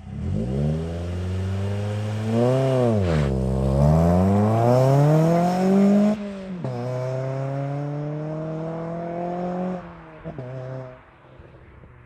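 Ford Fiesta ST150's four-cylinder engine through a decatted Scorpion cat-back exhaust, accelerating hard. The revs climb, dip briefly and climb again, then drop suddenly about six seconds in at a gear change and climb once more. Near ten seconds the throttle closes, with two short pops, and the note fades away.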